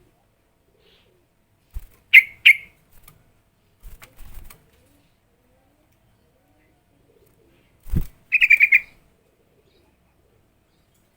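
Yellow-vented bulbul calling: two sharp notes about two seconds in, then a quick chattering run of about six notes just after eight seconds. A few short low thumps fall in between.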